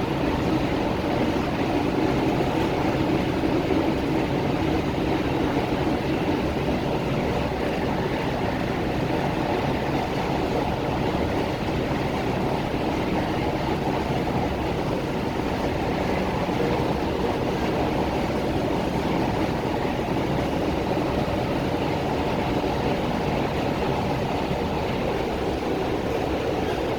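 Steady running noise heard aboard an MTR Tung Chung line K-train, a Hyundai Rotem electric multiple unit, travelling between stations: an even rumble of wheels on rail and running gear, with no braking or stops.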